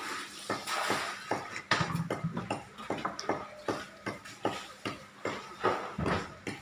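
Machete (parang) chopping into an areca palm trunk: a steady run of sharp strokes, about three a second.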